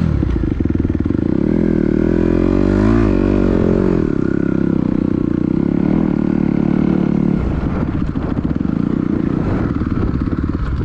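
Dirt bike engine running under throttle. Its pitch rises and falls about three seconds in, then holds steady, and the note shifts about seven seconds in.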